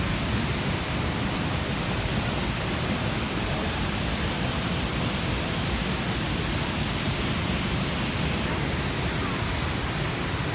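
Niagara Falls' falling water: a steady, even rush of noise with no breaks.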